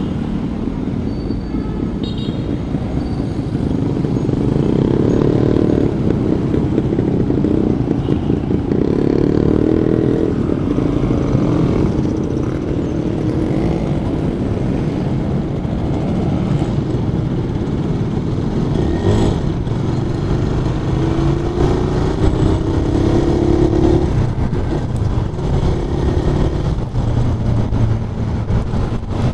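Suzuki Raider 150 carburetted single-cylinder motorcycle engine running while riding, its pitch rising as it accelerates about three-quarters of the way through, then easing off.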